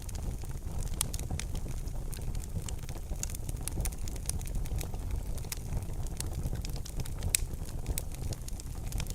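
Wood fire crackling in a fireplace: irregular sharp pops and snaps over a steady low rumble, with one louder pop about seven seconds in.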